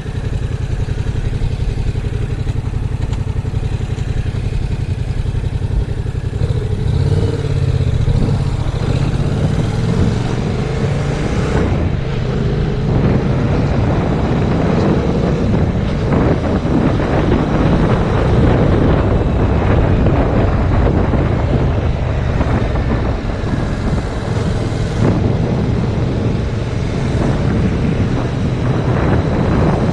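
Yamaha MT-07's parallel-twin engine running while riding, half buried under loud, steady wind rush on the camera's microphone.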